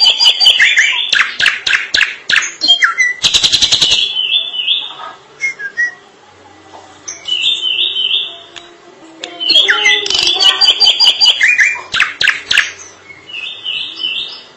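Drongo singing: phrases of rapid whistled and chattering notes with quick sweeps, and a harsh buzzy note about three seconds in, broken by short pauses.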